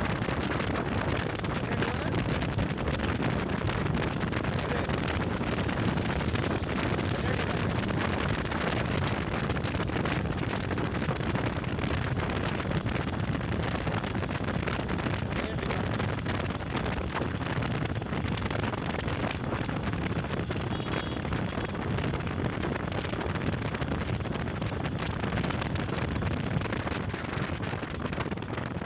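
Steady wind rushing over the microphone of a moving motorcycle, a constant roar with no breaks.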